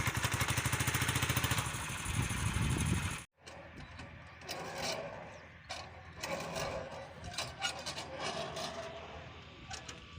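Honda CD70's 70cc single-cylinder four-stroke engine running close by with a rapid, even putter. It cuts off abruptly about three seconds in, leaving faint, indistinct outdoor sounds with a few light knocks.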